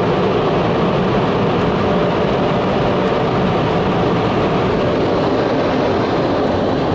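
Car wash dryer blowers, heard from inside the car as a loud, steady rushing of air with a faint hum underneath.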